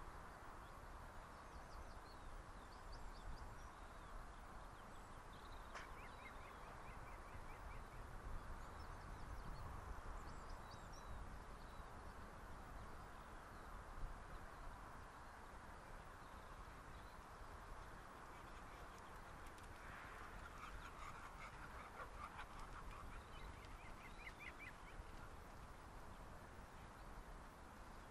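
Faint outdoor ambience: small birds chirping and trilling on and off over a low steady rumble, with a single soft knock about halfway through.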